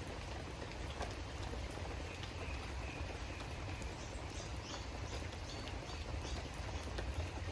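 Steady rain falling, with scattered individual drops ticking. From about the middle onward, faint short high chirps come about twice a second.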